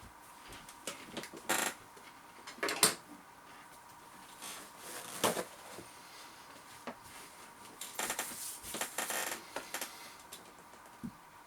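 Joy whole grain crackers crunching as they are bitten and chewed: a few separate sharp crunches, then a quicker cluster of crunches later on.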